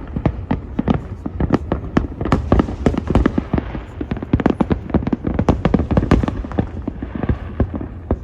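Distant aerial fireworks going off in a dense, rapid barrage: many sharp bangs and crackles a second over a continuous low rumble of echoing booms.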